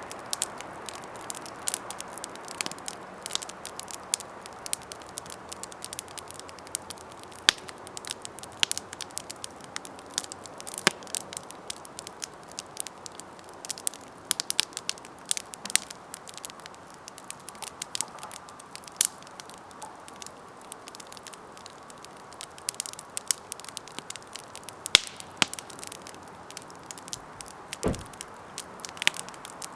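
Campfire burning: wood crackling and popping at irregular intervals over a steady hiss of flame, with a few louder pops.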